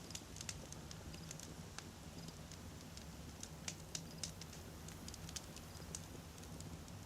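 Wood campfire crackling: irregular sharp pops and snaps of burning logs, sometimes several in quick succession, over a steady low rumble.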